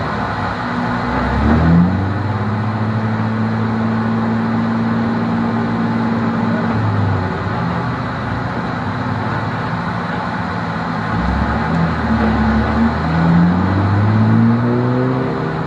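BMW E30 race car's engine heard from inside the cabin, running under load on track. Its pitch holds steady, drops away briefly twice around the middle, and climbs as it revs up near the end.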